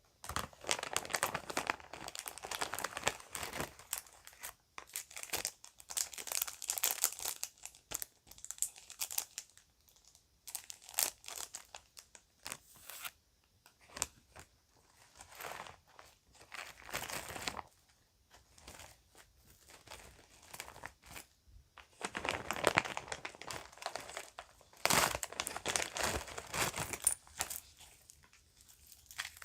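Plastic bag crinkling and rustling as it is handled, in repeated bursts with short pauses between them.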